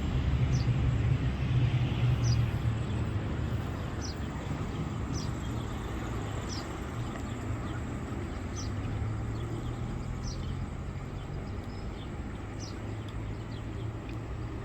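A bird repeating a short, high, falling call every second or two, over a steady rushing background and a low hum.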